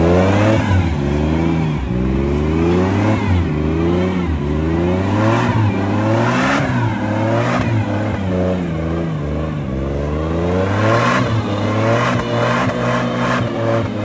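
Suzuki Jimny engine revving up and falling back over and over, about once every second or so, as its wheels spin on slippery grass without getting traction.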